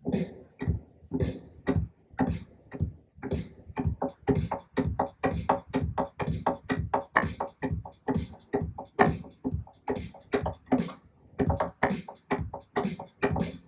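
A live-style drum-kit beat, kick and snare hits with cymbal or hi-hat strikes in a steady groove, played in by hand from a sampled drum kit. It starts sparse and gets busier about four seconds in.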